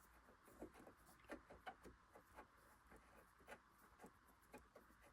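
Very faint, irregular clicks and taps of a plastic sewing machine being handled while it is taken apart and cleaned.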